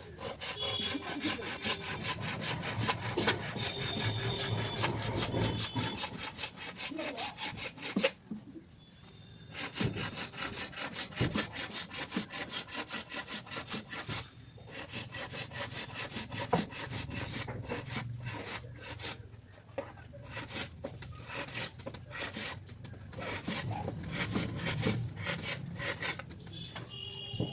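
Hand saw cutting teak wood in steady back-and-forth strokes, stopping for a moment about a third of the way through before carrying on.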